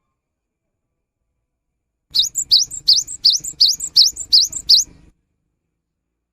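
Cinereous tit (gelatik batu) calling a quick series of about nine sharp, rising notes, roughly three a second, starting about two seconds in and lasting about three seconds.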